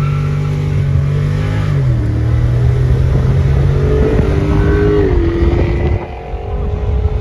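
Car engine pulling hard at high revs. Its pitch steps down about two seconds in, like a gear change, and it drops off briefly about six seconds in before picking up again.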